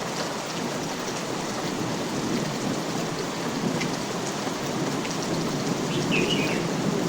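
Steady rain falling, an even hiss with scattered individual drops ticking. About six seconds in comes one brief high chirp.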